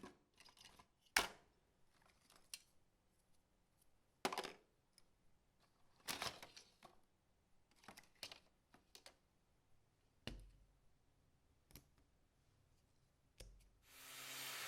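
Scattered short clicks and knocks of tools and parts being picked up and set down on a workbench, then a power tool starts up near the end and runs steadily.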